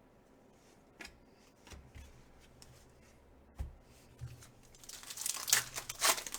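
Trading card pack wrapper torn open and crinkling, loudest near the end, after a few light taps and a dull knock from handling the cards.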